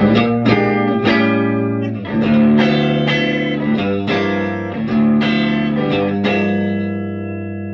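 Electric guitar in the middle pickup position played through a Vintage Sound Amp's tweed channel at a volume of about 6.5: a run of struck chords and notes, each attack ringing on into the next.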